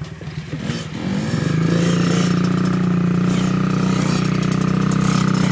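Dirt bike engine picking up about a second and a half in, then running steadily at a held speed.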